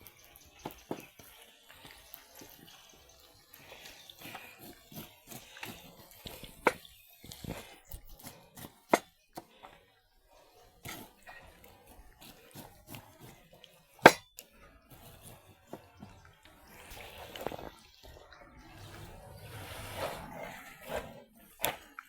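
Kitchen handling sounds: scattered sharp knocks and clinks of pots, dishes and utensils every second or two, the loudest about two-thirds of the way through, with a stretch of splashing water near the end.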